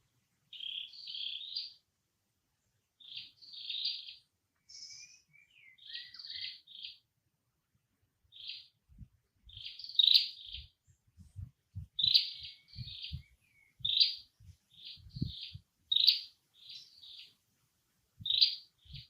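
High-pitched chirping animal calls in short clusters, repeated every second or two, with soft low thuds joining from about halfway through.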